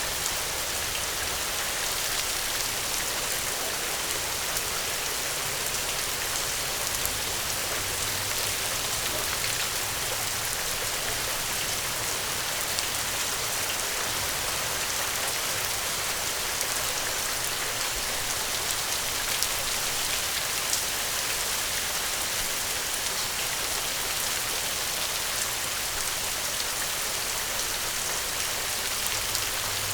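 Steady rain falling in an even hiss, with scattered small ticks of drops. A faint low rumble comes and goes underneath.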